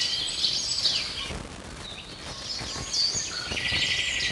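A songbird singing the same short phrase twice, about four seconds apart: a buzzy trill followed by quick falling whistles. Underneath are faint scrapes and clicks of melon seeds being stirred as they fry in ghee in a metal pan.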